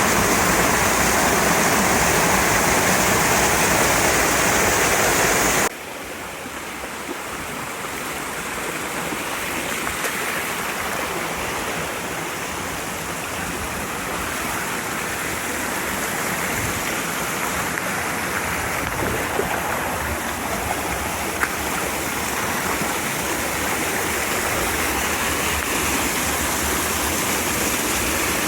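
Mountain stream water rushing in a steady noise. About six seconds in it cuts abruptly to a softer flow that gradually swells.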